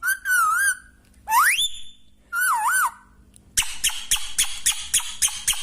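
Pet parrot whistling: a wavering whistle, a steep rising whistle, and a warbling whistle, then a quick run of sharp chattering chirps over the last two seconds.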